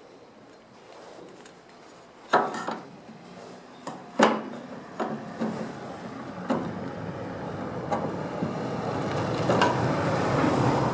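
A run of irregular knocks and taps, about eight of them and the loudest early on, from work on car body parts in a home workshop. Under them, a noisy background grows steadily louder toward the end.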